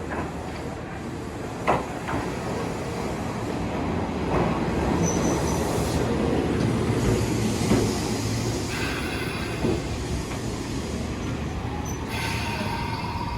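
Electric train of former Tokyu cars running on the track, its wheels knocking over rail joints now and then. A high wheel squeal comes in during the second half, with a steady whine near the end.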